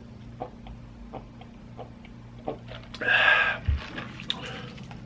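Soft clicks and taps of fast-food packaging being handled, with a brief louder rustle about three seconds in, over a steady low hum.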